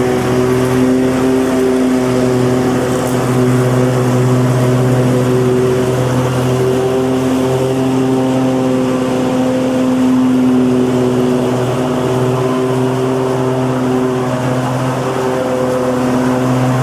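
Lawn mower engine running steadily at a constant speed, a loud, even drone with a low, unchanging pitch.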